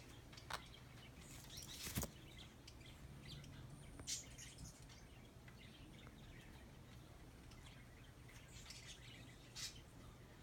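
Pet bird giving a few short, scattered chirps against a quiet room, with one sharp click about two seconds in.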